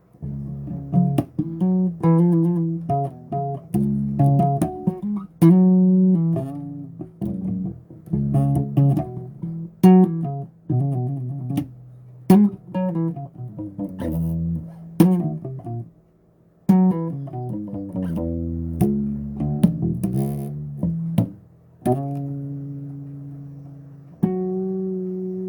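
Solo bass guitar played unaccompanied: a run of plucked notes and chords with sharp attacks, pausing briefly twice, then longer ringing held notes near the end.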